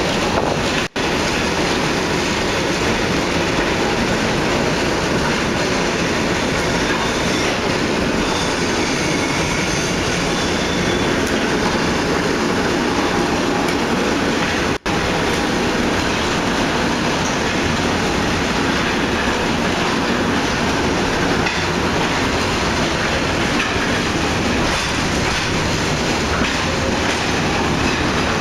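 Hershey electric railway train running, heard from inside a passenger car with its windows open: a steady noise of the car moving along the track. The sound cuts out for an instant twice, about a second in and about halfway.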